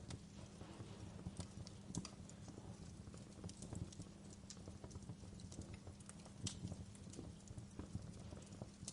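Wood fire crackling in a fireplace: a low steady rumble under irregular small pops and snaps, with a few sharper pops about two, six and a half and eight seconds in.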